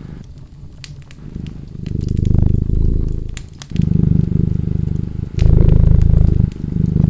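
A cat purring in rhythmic swells with each breath, soft for the first second or so, then in loud phases, mixed with the sharp pops and crackles of a wood fire.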